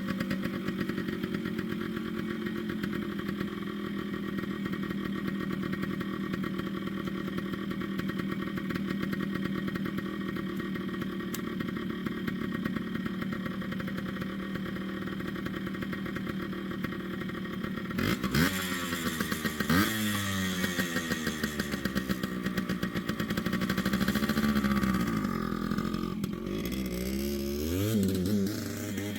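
Yamaha RT100's two-stroke single-cylinder engine idling steadily, then revved up and down several times from about two-thirds of the way through, as the carburettor is being tuned.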